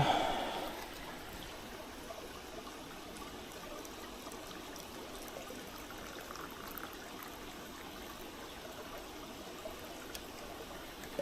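Mountain stream running steadily, an even rush of water. A short loud sound, rising in pitch, comes right at the start and fades within about a second.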